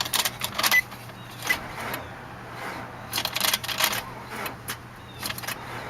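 2003 Nissan Altima's starter clicking in irregular bursts of rapid clicks, with a few brief high beeps early on: the battery is not strong enough to crank the engine.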